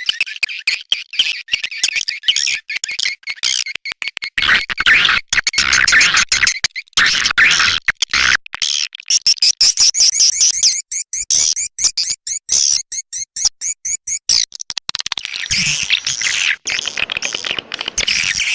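Swiftlet calling-sound recording: rapid, dense twittering chatter of swiftlets with short breaks. It is a lure track, played to draw swiftlets into a nesting house.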